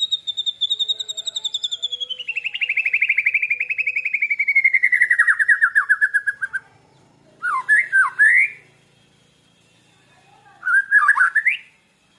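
Caged songbirds, a white-rumped shama and a lovebird, singing. A long rapid trill slides steadily down in pitch for about seven seconds, then two short bursts of swooping whistled notes follow a few seconds apart.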